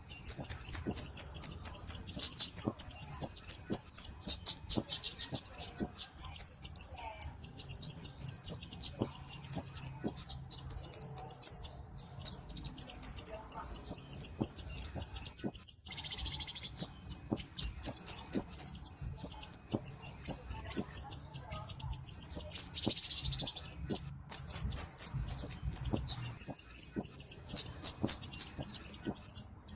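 Flowerpecker (cabe-cabean) singing: long, fast runs of thin, high-pitched chipping notes, broken by a few short pauses.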